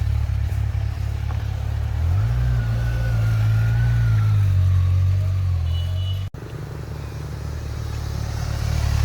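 A motor vehicle engine running steadily. Its pitch rises about two seconds in and eases back down, and the sound breaks off abruptly for a moment about six seconds in.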